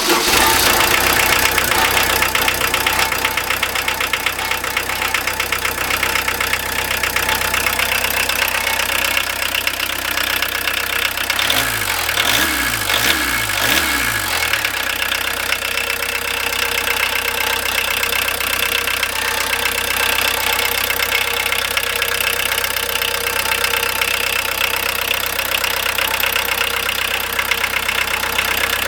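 VW T3's 1.6-litre JX four-cylinder turbo diesel running with diesel knock, cold and just started after long standing. About twelve seconds in the engine note wavers up and down a few times, then settles. The downpipe is rusted off the exhaust and holed, so it runs with an exhaust leak, though it runs decently.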